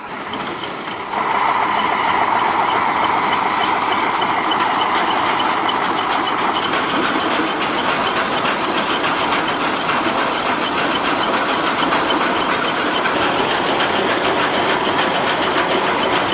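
Heavy truck diesel engine running hard under load while towing a truck stuck in sand. It gets louder about a second in and then holds steady.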